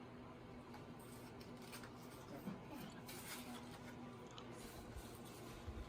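Faint light scrapes and rustles of small handling sounds, with a low steady hum underneath.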